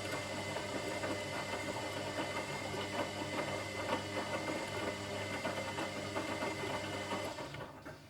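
Washing machine running: a steady motor hum with a churning, rattling texture, which cuts out about seven and a half seconds in, leaving only a faint hum.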